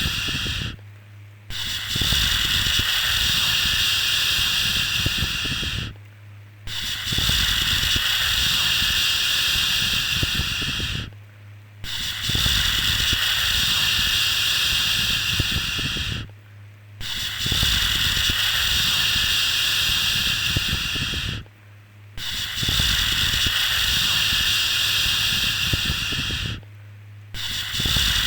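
A long, steady 'shhh' shushing sound for lulling a baby to sleep, repeated about every five seconds with a short pause between shushes.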